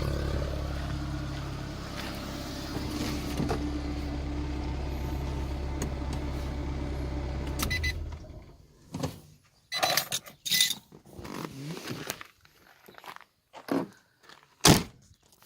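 Nissan SR20 low-port 2.0-litre four-cylinder engine idling steadily, then switched off about eight seconds in. A scatter of light clicks and knocks follows, with one sharp knock near the end.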